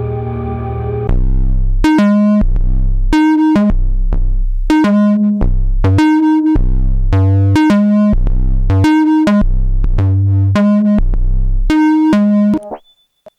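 Dreadbox Typhon monophonic analog synthesizer playing a factory preset. A held note gives way about a second in to a rhythmic sequenced pattern. The pattern alternates deep bass notes with bright plucked notes whose tone sweeps down as they fade. It stops shortly before the end, leaving a few faint high blips.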